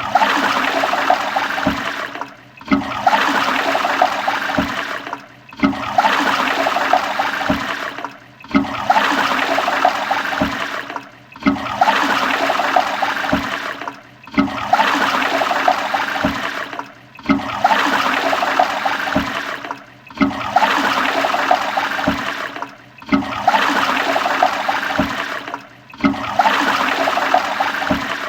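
A toilet flushing: a rush of water that starts suddenly, tapers off and breaks briefly, repeating about every three seconds like a looped flush.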